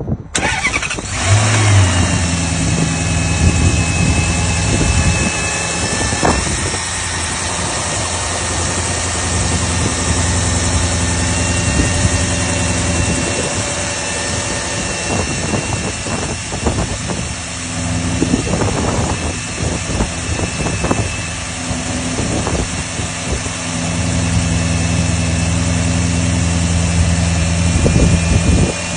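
2009 Maserati Quattroporte S V8 cold start: the starter cranks, the engine catches about a second in and flares up loudly, then settles into a steady fast cold idle.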